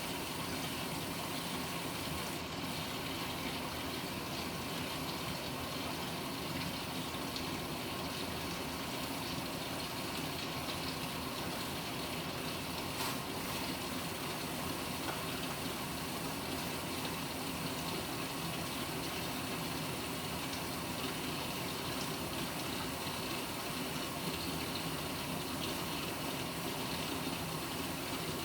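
Panasonic NA-FA100H9 top-loading washing machine filling its tub with water, a steady gushing that keeps on without a break.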